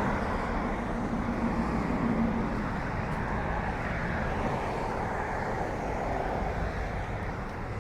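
Steady outdoor rumble of distant road traffic, with a faint engine hum in the first couple of seconds.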